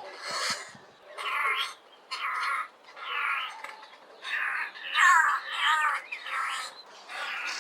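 Black-collared barbet calling: the same short phrase repeated about once a second.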